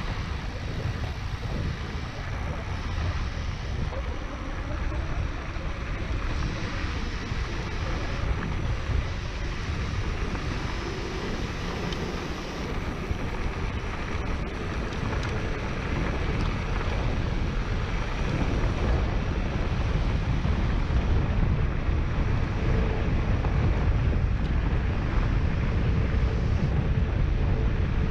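Wind buffeting the microphone over the rumble and rattle of a mountain bike's tyres rolling through sand and dirt, steady and gusting slightly. A faint thin whine comes in over the last few seconds.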